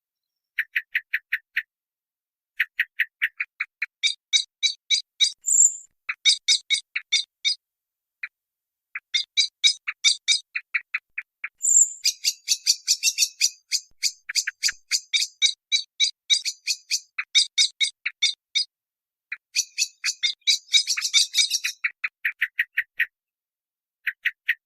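Rapid trains of short, high-pitched chirps, several a second, broken by brief pauses, with more than one caller overlapping from about halfway through.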